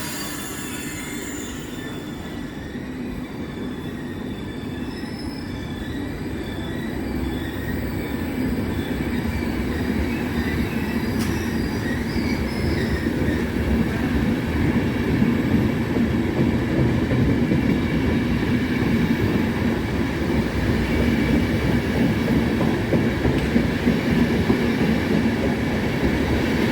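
Train running along the rails, its rumble growing louder over the first half and then holding steady.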